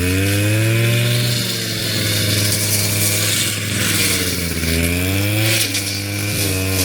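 Small petrol engine of a garden power tool running hard, its pitch rising and dipping as it works under load.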